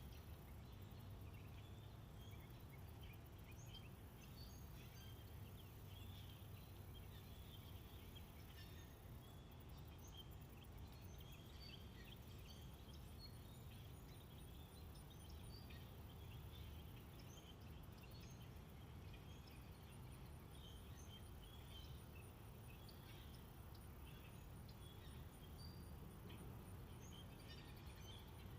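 Faint outdoor nature ambience: scattered small bird chirps and a very high, evenly pulsing insect trill that comes and goes, over a low steady rumble.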